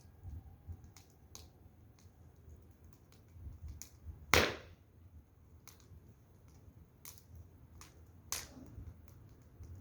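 Firewood burning in an open fire, crackling with scattered sharp pops, the loudest about four seconds in and another about eight seconds in.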